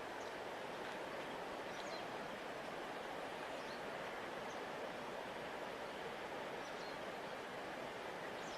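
A large river flowing with a steady, even rush of water, with a few faint, short, high chirps scattered through it.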